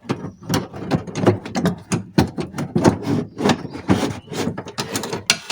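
Scissor-type window regulator being wrestled out of the door: a continuous run of metal clicking, clattering and rattling as its arms and motor knock against the inside of the door panel.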